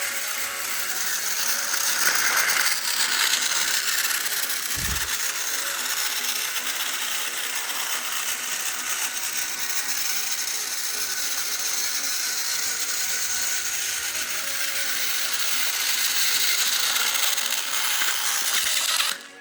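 Battery-powered toy train engine running, its small electric motor and plastic gears giving a steady whirring clatter that cuts off suddenly near the end.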